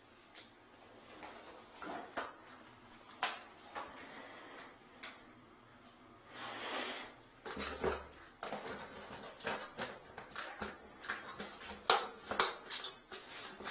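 Scattered clicks and knocks of hard objects being handled, sparse at first and busier in the second half.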